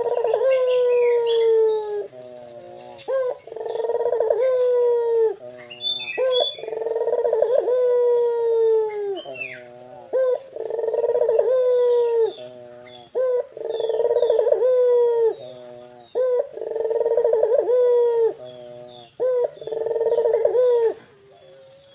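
A captive puter turtle dove cooing: about seven long, rolling coos, each opening with a short rising note and then sliding slowly down in pitch, repeated roughly every three seconds. Faint chirps of small birds sound in the background.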